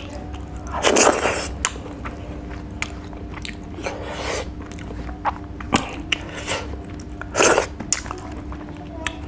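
Close-miked chewing of rice and dried fish, with many small wet mouth clicks and a few louder crunches: one about a second in, one around four seconds and one near the end.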